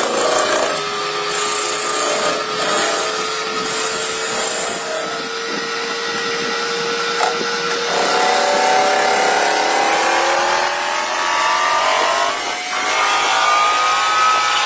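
Lathe turning: the cutting tool working a spinning workpiece, a continuous noisy cutting sound with a whining tone that holds steady at first, then from about eight seconds in several whining tones climb slowly in pitch.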